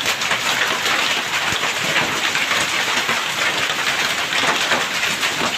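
Heavy rain pouring down after a hailstorm: a loud, steady hiss thick with drop impacts. The hail has eased off and the downpour has grown heavier.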